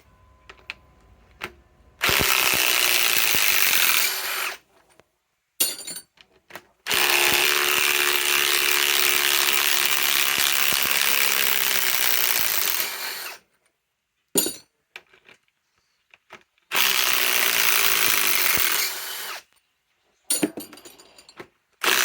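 Ryobi PSBIW25 compact cordless impact wrench backing 5/16 by 3-inch galvanized lag screws out of wood. It runs three times: about two seconds, then about six seconds, then about three seconds, with short clicks and knocks in between. A fourth run starts at the very end.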